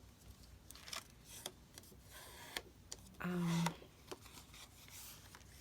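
Paper being handled during crafting: soft rustling with scattered light clicks and taps. A woman gives a short hum about halfway through.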